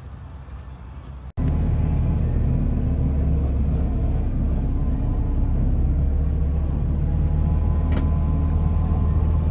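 Car engine running steadily at a constant low pitch. About a second in, the sound cuts abruptly from a quieter passage to the much louder engine.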